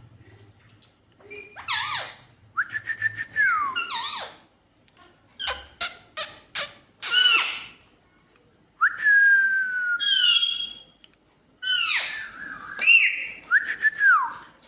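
Pet parrot whistling and calling: a run of short whistles and harsh sweeping calls, including a few longer held whistles, with a burst of quick sharp chirps near the middle.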